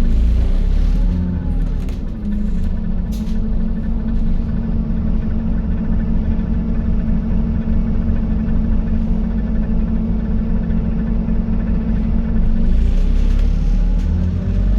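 Scania N280UD double-deck bus's diesel engine running as the bus drives, heard from inside the cabin as a steady low hum and rumble. A couple of sharp rattles come in the first few seconds, and the engine grows louder in the last two seconds as the bus pulls harder.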